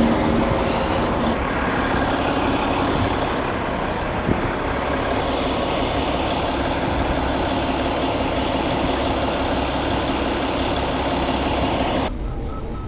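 Cat 730 articulated dump truck's diesel engine running under load as the machine drives, a loud steady engine and drivetrain noise. Near the end it cuts off abruptly to a quieter background with a regular faint beeping.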